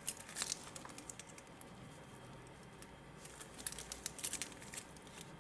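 Faint metallic clicks and light rattling from a stainless steel watch bracelet and its folding clasp being handled, in two small clusters: one at the start and one a little past the middle.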